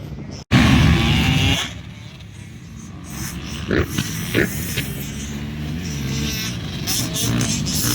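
Motocross bike engines running on a dirt track, loudest just after a brief cut in the sound about half a second in, then a steadier engine drone.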